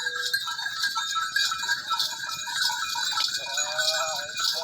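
Livestock bells ringing steadily, with one wavering animal call about three and a half seconds in.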